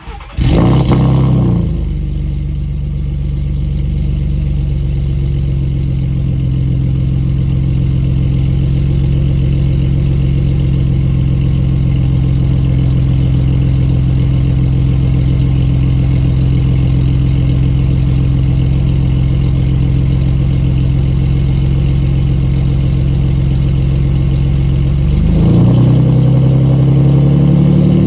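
2019 Ford F-150's 3.5 EcoBoost twin-turbo V6 starting up with a brief loud flare, then idling steadily through catless downpipes and a 5-inch MBRP exhaust dumped just behind the axle. About 25 seconds in the engine speed rises and holds higher.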